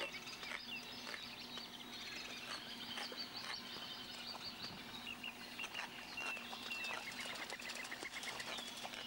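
Faint birdsong: small birds chirping, with quick runs of short high notes, over a faint steady low hum.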